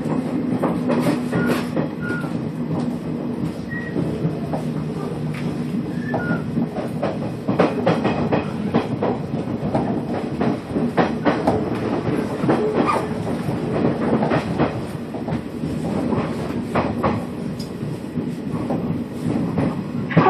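Nishitetsu electric commuter train running, heard from inside the car: a steady running hum with many irregular clicks and clacks from the wheels on the track.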